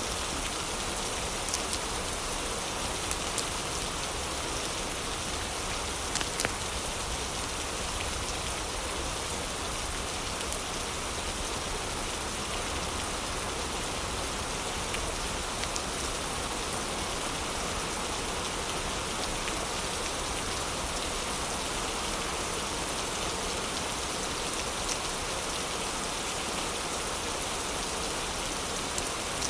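Steady heavy rain, with a few sharp crackles and pops from a wood fire scattered through it, most in the first ten seconds.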